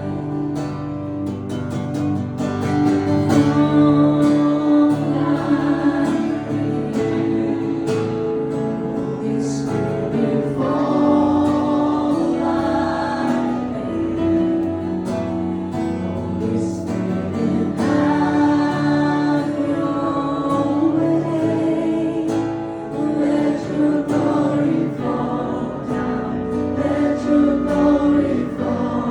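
Live worship music: a group of voices singing a slow worship song in long held phrases over acoustic guitar.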